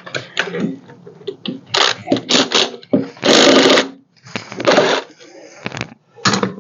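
Hand tools clattering and clinking in irregular knocks, with one louder scraping burst lasting under a second about three seconds in.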